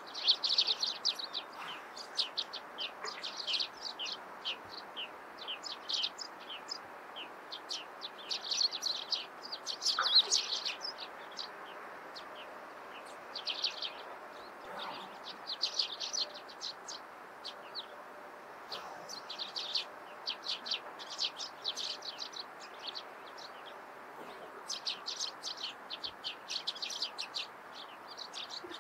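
Small songbirds chirping in quick clusters of short, high notes, in bursts every second or two, over a steady background hiss.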